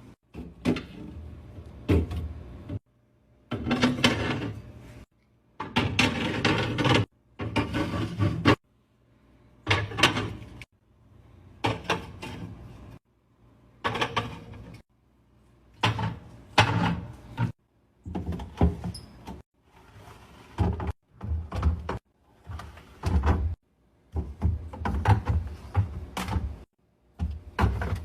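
Household items being handled and put away in pantry cupboards and a fridge: clunks, knocks and rustling, with doors opening and closing. The sound comes in short clips that start and stop abruptly.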